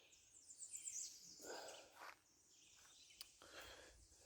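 Near silence: faint outdoor background with a few quick high bird chirps about a second in and a small click later on.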